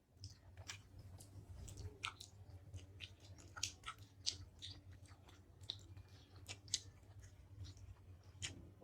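Faint chewing with soft, wet mouth clicks at an irregular pace, from someone eating syrup-soaked sweets.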